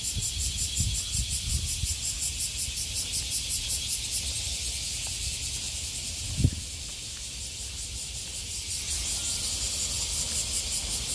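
Cicadas singing in a high, rapidly pulsing chorus that smooths into a steadier buzz midway and pulses again near the end, over a low rumble with one thump about six and a half seconds in.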